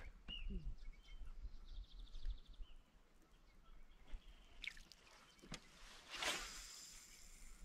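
Faint bird chirps and a short trill over quiet open-air ambience, with a brief whoosh about six seconds in.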